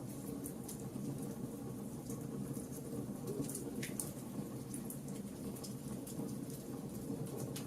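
Wood fire crackling in a fireplace: a steady low rush from the flames with scattered sharp pops and snaps.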